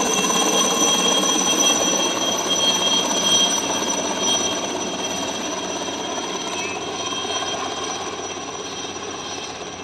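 Helicopter turbine and rotor noise with a steady high-pitched whine, fading gradually as the helicopter moves away after takeoff.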